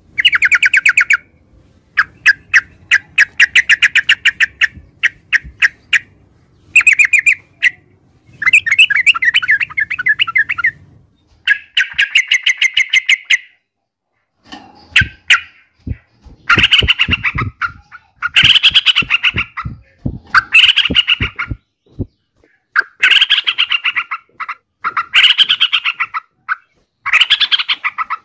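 Yellow-vented bulbul (Pycnonotus goiavier) singing: bursts of rapid, chattering notes about one to two seconds long, repeated again and again with short pauses between them.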